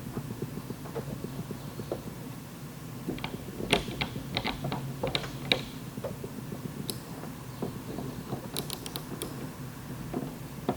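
Scattered sharp clicks and light knocks of a glue-pull bridge lifter (K-beam) being readjusted on the panel. One cluster comes about three to six seconds in and another near nine seconds, over a steady low hum.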